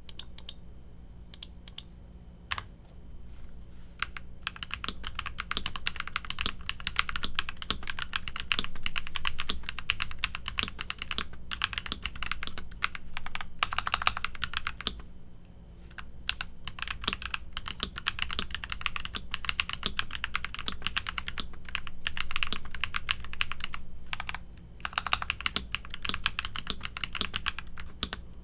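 Typing on a Nuphy Halo65 65% mechanical keyboard with linear switches. A few separate keystrokes come first, then fast continuous typing with two short pauses.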